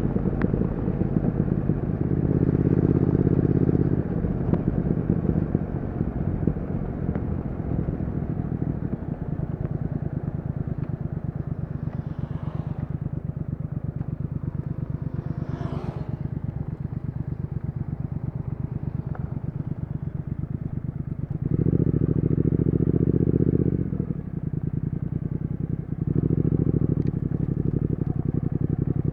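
Triumph Speed Twin 1200's parallel-twin engine and exhaust running steadily at low revs, growing louder for a couple of seconds three times: about two seconds in, past the twenty-second mark, and near the end.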